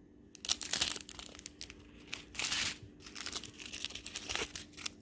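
Small plastic packets of diamond painting drills crinkling as they are handled, in a run of irregular rustles that starts about a third of a second in.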